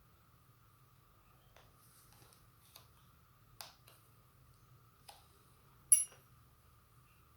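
Scattered small clicks and taps from handling tools and parts during the charger repair. The loudest is a sharp, briefly ringing metallic tick about six seconds in. A faint steady whine runs underneath.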